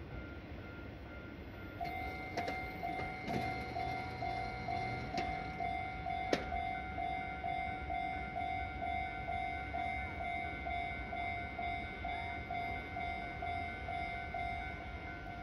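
Railway level-crossing warning bell starting up about two seconds in and ringing in an even, repeating beat over a low rumble, with a few sharp clicks in its first seconds.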